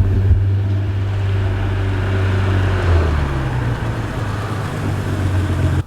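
A car driving: a steady engine drone with road noise. The engine note shifts up about three seconds in, and the sound cuts off abruptly near the end.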